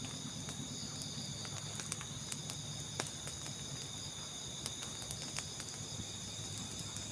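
A night chorus of crickets and other insects chirring steadily at several high pitches, with scattered faint clicks, one a little louder about three seconds in.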